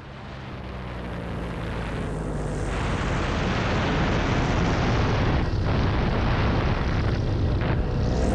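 Paramotor engine running at low revs, its steady low drone under a broad rushing noise that swells over the first few seconds and then holds.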